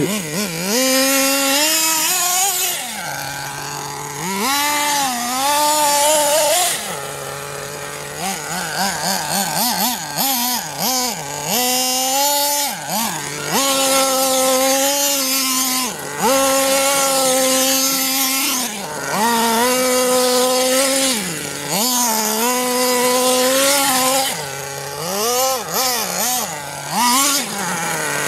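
Small nitro engine of a 1/8-scale Redcat Avalanche XP RC truck, revving up and down over and over as the truck is driven: the pitch climbs to a held high buzz, then falls back toward idle every two to three seconds.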